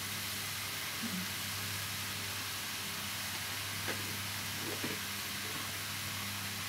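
Chicken, mushrooms and freshly added ginger sizzling steadily as they sauté in a pan. There are two faint light utensil clicks about four and five seconds in.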